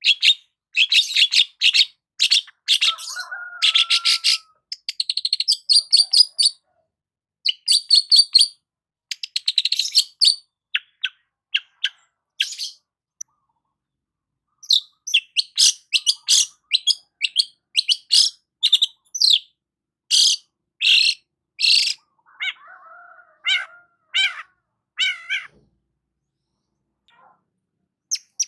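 Long-tailed shrike (cendet) singing: fast runs of sharp, high chattering notes mixed with varied warbled phrases, broken by two short pauses, about halfway and near the end.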